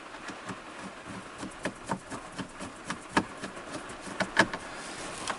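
Heavy rain falling, with many irregular sharp ticks of drops over a faint steady hiss.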